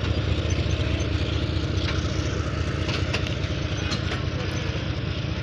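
A passenger train rolling slowly past at close range: the steady low drone of the American-built diesel locomotive 9020 pulling away, with occasional clicks of wheels over rail joints.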